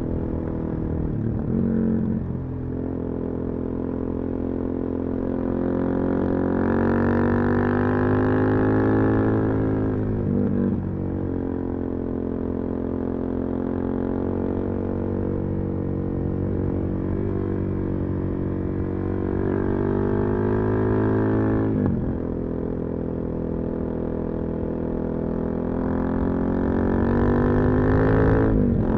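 Suzuki DR-Z400SM single-cylinder four-stroke running through a full Yoshimura exhaust, pitch climbing under throttle and then dropping sharply, about four times.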